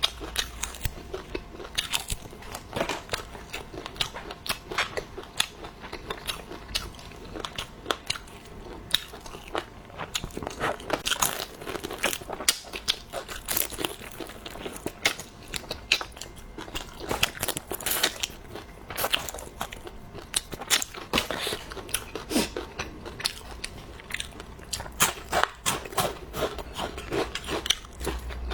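Close-miked eating: a person biting and chewing food, a steady run of quick wet clicks and crunches.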